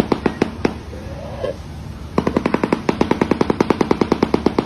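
Shoebill clattering its bill: a rapid rattle of sharp knocks, about nine a second. The rattle breaks off for about a second and a half near the start, then resumes.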